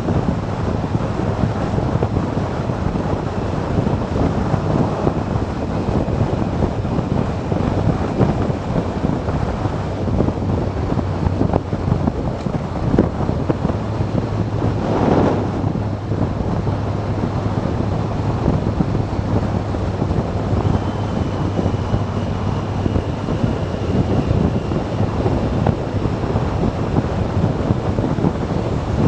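Wind rushing over the microphone of a moving motorcycle, with a steady low engine hum beneath it. There is a brief louder swell about fifteen seconds in.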